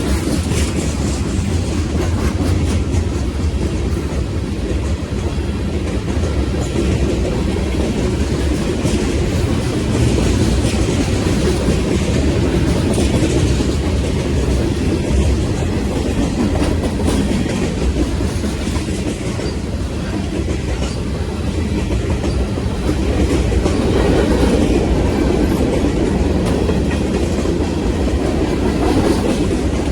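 Train running steadily on the rails: a continuous rumble of wheels and cars with a faint clickety-clack over the joints.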